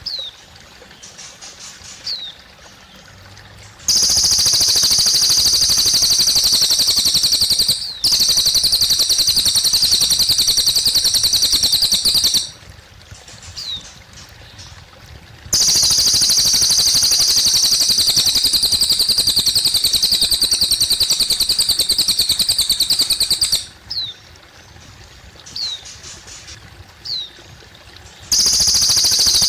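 Cililin bird singing: long, very rapid high-pitched trills of several seconds each, starting about 4 s in, about 15 s in and near the end, with short sharp chirps in the pauses. A faint trickle of water runs underneath.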